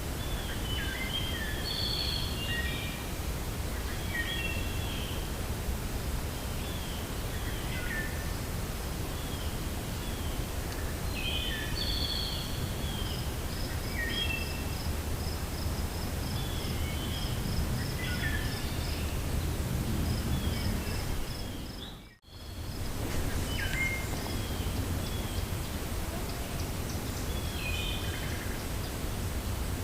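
Forest ambience: a steady low wind rumble under many short songbird chirps and calls, with a fast, high, even trill running for several seconds around the middle. The sound cuts out for a moment about three-quarters of the way through, then resumes.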